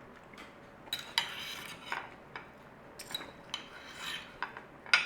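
Knife and fork clinking and scraping on a plate in short, scattered strokes, as someone cuts into food.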